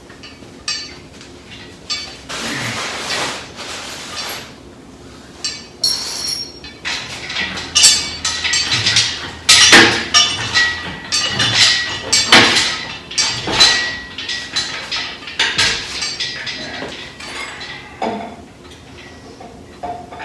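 Irregular metal clanks and clinks as the engine is handled and shifted into place, some impacts ringing briefly, thickest and loudest in the middle; a short hiss about two seconds in.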